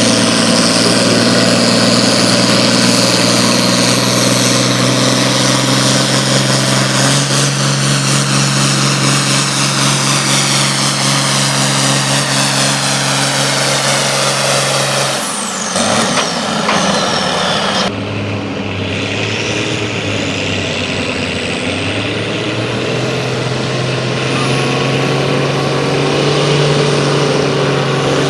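Competition pulling vehicle's engine running hard under load, with a high whine slowly rising in pitch. About halfway through it lets off abruptly, the whine falls away, and the engine runs on at a lower, steadier level.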